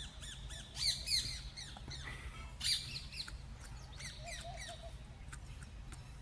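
Small birds chirping and squawking in quick series of short sharp calls, loudest about a second in and again near three seconds, over a steady low rumble.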